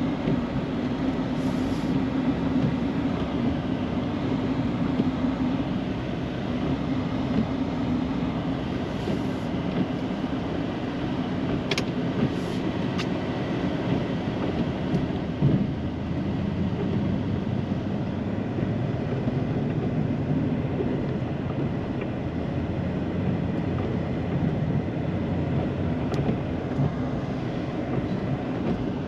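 Snow-plow truck running steadily under way, a constant low engine and road noise. A couple of sharp clicks come about twelve seconds in.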